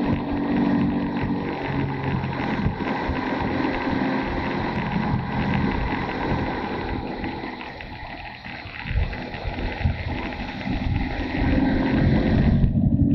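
Motorcycle engine running while riding, mixed with wind noise on the microphone. The engine eases off about two-thirds of the way through, then pulls harder again near the end.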